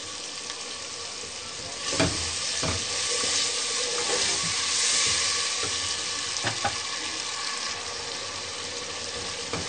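Spiced onion-tomato masala frying in oil in a pot, sizzling steadily, with a little water just added so it doesn't burn; the sizzle grows louder from about two seconds in, then eases. A wooden spoon stirs and knocks against the pot a few times.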